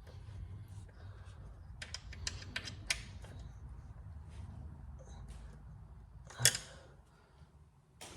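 Small metal clicks and taps as axle slider parts and an Allen key are handled, a quick run of them about two seconds in, then one sharper knock about six and a half seconds in, over a low steady rumble.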